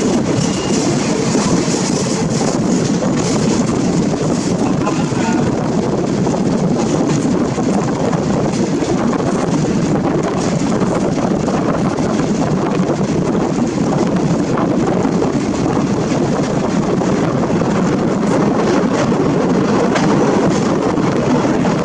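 Steady running noise of a moving express passenger train heard from an open carriage window: wheels on the rails with rushing air.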